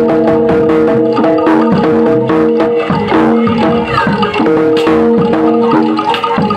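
Loud, fast ensemble music of struck metal keyed instruments and drums: ringing held notes under a dense run of quick percussion strikes, in the style of a Javanese gamelan.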